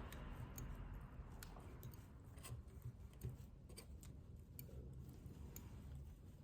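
Faint, irregular light clicks and taps of small tools and parts being handled during a smartphone repair, over a low steady hum.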